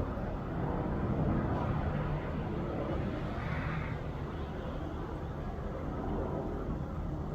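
Steady low engine rumble, with a brief hiss rising above it about three and a half seconds in.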